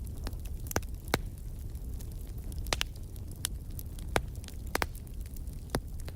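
Wood fire burning in a fireplace: a steady low rumble of flames with irregular sharp crackles and pops, about a dozen in the span, the loudest about a second in and near four seconds in.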